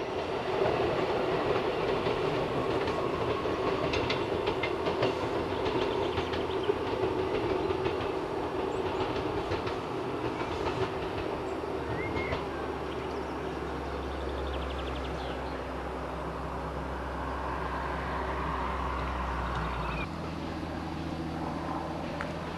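A passenger train running along the line, with a few clicks of its wheels over the rails in the first seconds. It fades slightly as it draws away into a tunnel. About twenty seconds in, the sound cuts to a quieter steady outdoor background.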